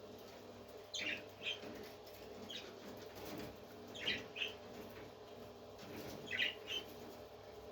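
Parrot chirping: short high calls, three of them quick pairs and one single, spread over several seconds.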